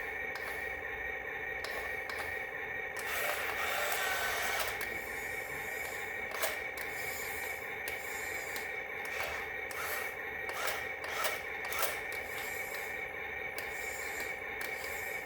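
Small electric motor whining steadily, with a scraping rasp a few seconds in and a run of sharp clicks in the second half.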